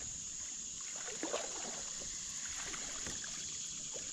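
Water trickling and lapping around a kayak on a creek, with a few small splashes or knocks about a second in and again later.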